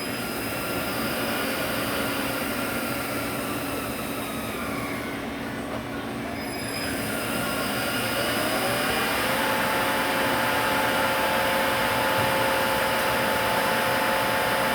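Eaton Fuller FSO-6406A six-speed truck transmission running under test on a dyno stand, its gears whining. The whine shifts in pitch and dips through the first half, then settles into a louder, steady whine about nine seconds in.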